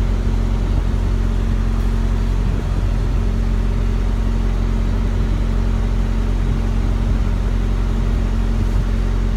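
Diesel semi-truck engine idling steadily, a constant low hum.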